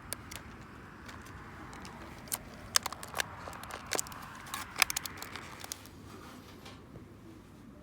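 Wood fire crackling, with irregular sharp pops over a soft steady hiss; the loudest pops come about three and five seconds in, and the hiss fades near the end.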